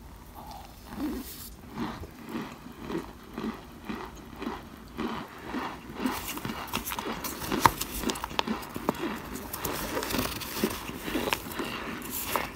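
Someone chewing baked cornstarch chunks, about two chews a second, with light crunching and squeaking. The crunches turn sharper and clickier about halfway through.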